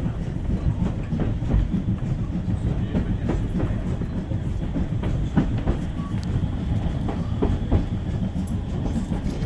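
Steam-hauled railway carriage running along the line: a steady low rumble from the wheels on the track, broken by irregular clicks and knocks from the rail joints and the carriage.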